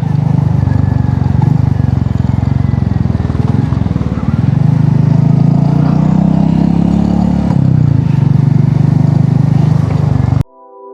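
Motorcycle engine running under way, its note rising and swelling for a few seconds in the middle as it accelerates. Near the end it cuts off abruptly to soft piano music.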